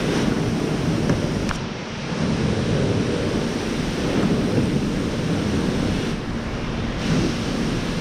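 Pressure washer spraying water onto a fiberglass truck camper shell: a steady rushing spray that eases briefly about two seconds in and again around six seconds.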